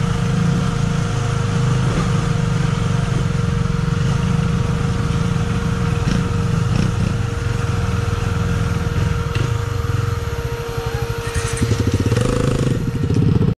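KTM Duke motorcycle engine running at low speed on a rough dirt track, with a steady whining tone over it. Near the end it drops to a putting idle as the bike stops.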